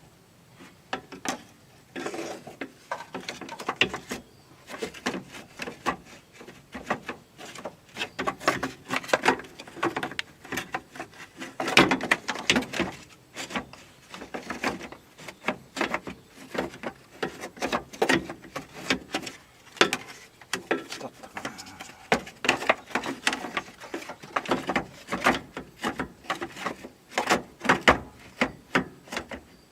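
Irregular clicks, knocks and light rattles of parts and hand tools being handled and worked into place, many per second in clusters.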